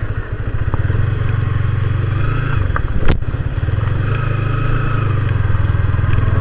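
Motorcycle engine running steadily at low speed while riding on a rough road, with a single sharp knock about three seconds in.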